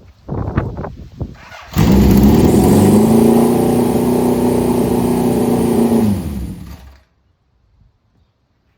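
Motorcycle engine running steadily at raised revs, its pitch sagging slightly just before it stops abruptly. A few short knocks come in the first second and a half, before the engine sound starts.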